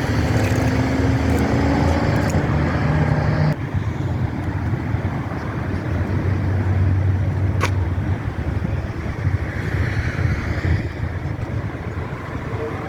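Car engine running in a parking lot, with a sudden change in the sound about three and a half seconds in and a steady low rumble afterwards.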